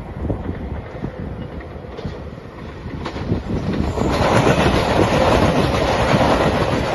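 JR Shikoku 2700 series diesel limited express train passing a level crossing, its noise rising sharply about four seconds in and staying loud. Wind buffets the microphone before the train arrives.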